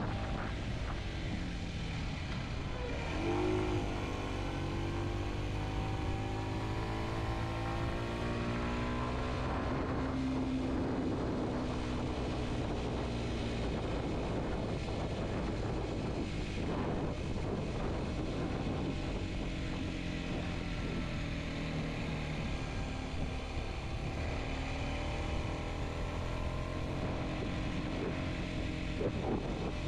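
Kawasaki Z125's small single-cylinder four-stroke engine running under way, its pitch jumping up about three and a half seconds in, then sinking slowly and later shifting up and down with the throttle, with wind noise throughout.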